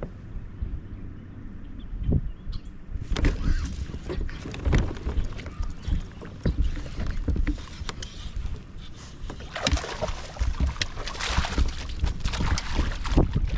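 Knocks and clatter on a fishing kayak with water splashing, busiest in the second half, over a low rumble.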